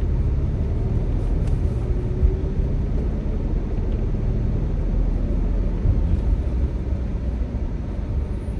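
Car engine running rough, heard inside the cabin as a steady low rumble while the car shakes.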